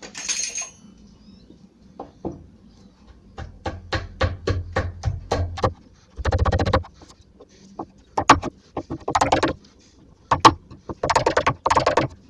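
A wood chisel struck repeatedly in quick runs of sharp taps, with single knocks between, cutting a recess deeper into the door timber.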